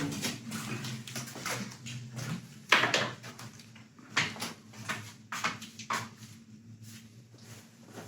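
Storm wind gusting in irregular surges against the building, with sharp knocks and rattles, over a steady low hum.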